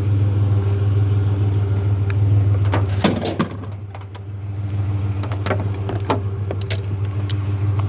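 Truck engine idling steadily, with a cluster of light metallic clanks and rattles about three seconds in and a few single knocks later, as a metal toaster oven is handled.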